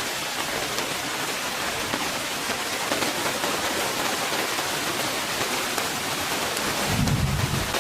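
Heavy rain falling, a loud steady hiss, with a brief low rumble about seven seconds in.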